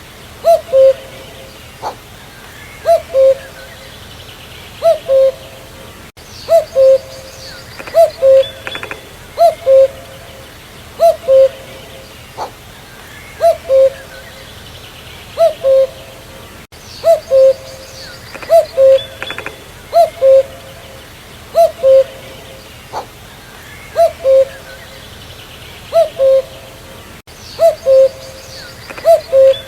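Common cuckoo (Cuculus canorus) calling its two-note "cu-coo" over and over, a higher note falling to a lower one, about every one and a half to two seconds. Fainter calls of other birds chirp in the background.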